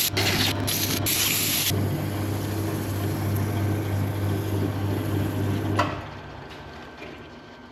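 Wood lathe motor running with a steady hum while sandpaper rubs against the spinning wooden workpiece for the first couple of seconds. The lathe then runs on its own until it is switched off about six seconds in, with a click, and the hum dies away.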